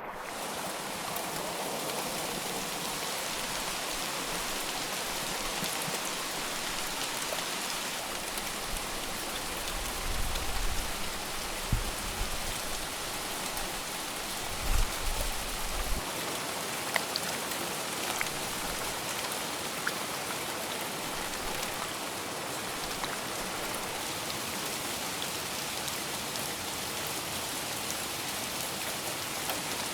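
Steady heavy rain falling, with scattered sharper drops and a few brief low rumbles about ten and fifteen seconds in.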